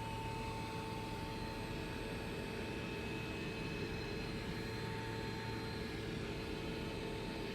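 Steady high-pitched whine from behind the rear driver-side seat of a 2009 Dodge Challenger SE, heard inside the cabin over the car's low, even rumble.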